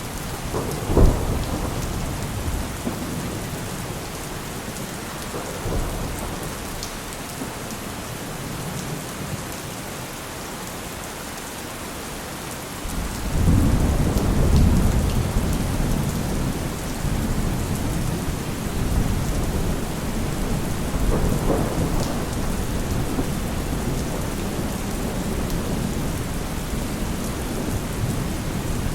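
Heavy rain falling steadily, with a sharp thunderclap about a second in and a long, deep roll of thunder swelling up about halfway through and rumbling on for several seconds.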